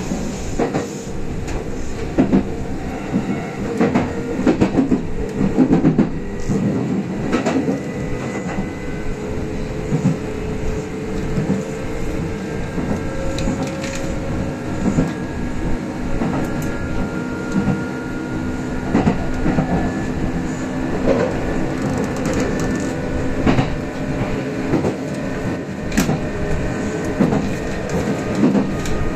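Kintetsu express electric train running at speed, heard from inside the leading car: a steady rumble of wheels on rail with irregular knocks and clacks from the track, and faint held tones that drift slightly in pitch.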